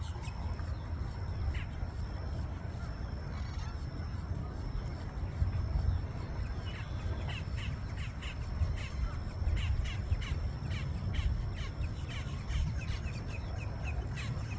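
Wild birds giving short, harsh calls, several a second from about halfway in, over a low steady rumble.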